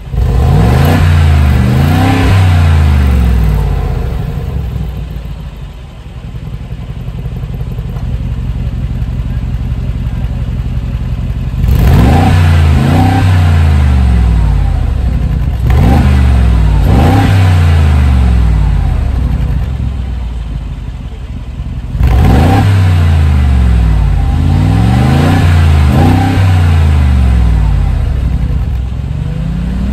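Mercedes-AMG G63's twin-turbo V8 revved repeatedly through its sports exhaust while stationary. The pitch climbs and falls in quick blips, with a steadier, quieter spell near idle between about four and eleven seconds in. Revs are held below the engine's 4,000 rpm stationary limiter.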